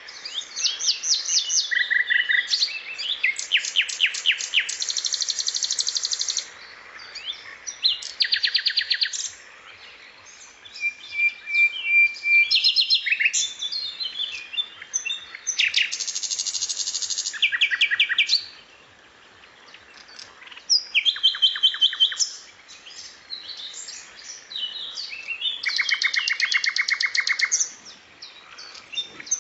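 Recorded songbird song played as a masteran (song-tutor track) of sikatan londo, cucak cungkok and tengkek: rapid high trills and buzzy chattering runs in phrases of one to two seconds, with short pauses between them.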